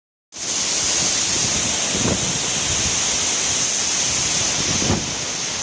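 Waterfall in full flow after heavy rain: a steady, loud rush of falling water, strongest in the high hiss.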